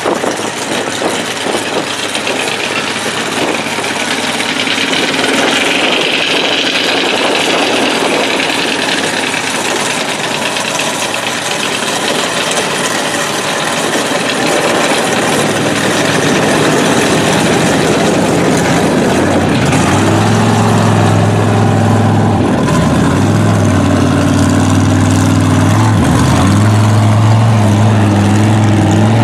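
Mud truck engines running in the mud pit: a loud, rough noise at first, then a strong, steady low engine note that takes over about two-thirds of the way in, shifting up and down in pitch.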